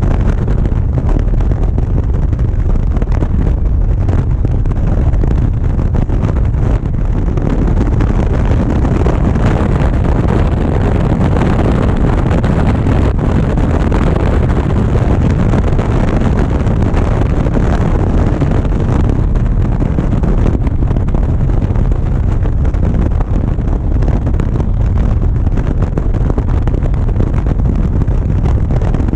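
Wind rushing over an action camera's microphone on a moving motorcycle, with the engine and road noise running steadily underneath at cruising speed.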